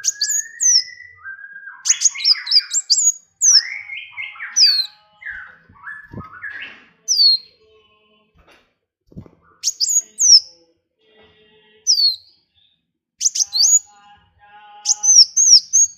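Recorded songbirds singing in bursts: rapid high chirps that sweep downward, mixed in the first half with lower warbling phrases, with short pauses between the bursts.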